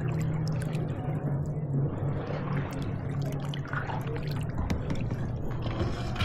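Water lapping and dripping around kayaks, with scattered small clicks and a steady low hum underneath.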